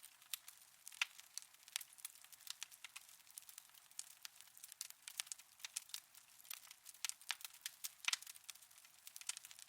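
Wood fire in a fireplace crackling: irregular sharp pops and snaps, several a second, over a faint hiss.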